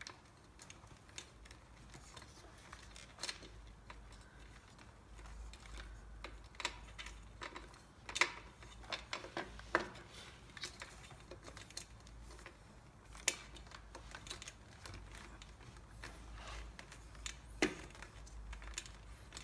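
Irregular small clicks and taps of wiring connectors and cables being handled and pushed into an e-bike frame.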